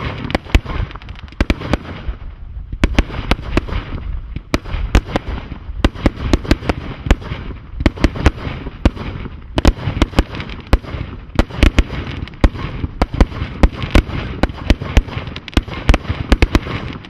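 Thunder King firework going off: a rapid, irregular stream of sharp bangs, several a second, over continuous crackling.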